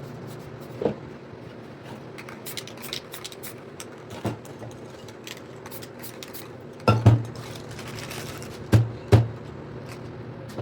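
Knocks and clatters of spray cans and tools being handled on the work surface, some in pairs, with short thin hisses between them.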